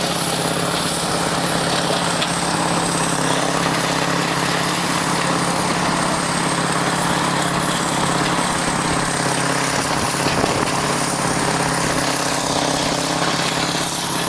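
A heavy loader's engine runs steadily under load, with a dense rushing noise over it as the machine works through snow and ice.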